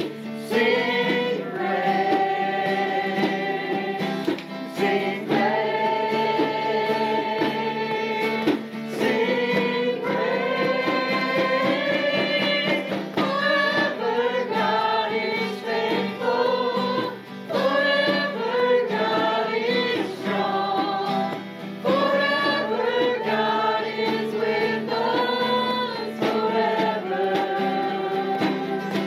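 Congregation and worship team singing a praise song together, accompanied by instruments holding a steady low note.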